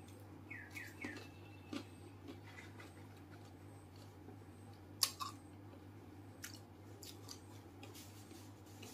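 Close-mouthed chewing of a whole pani puri, its crisp fried shell giving a few sharp crunches, the loudest about five seconds in, over a low steady hum.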